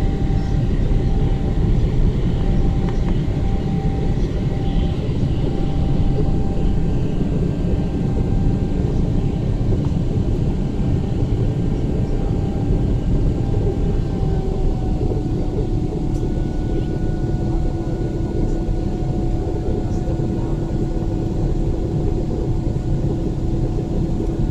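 Jet airliner cabin noise during the climb after takeoff: a steady, loud rush and engine drone with a low hum. The hum's tones shift slightly in pitch a little past halfway.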